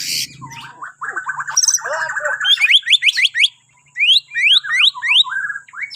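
Bornean white-rumped shama singing: a dense chattering phrase, then two runs of quick rising whistled notes separated by a brief pause, ending on lower notes. A short noisy burst comes right at the start.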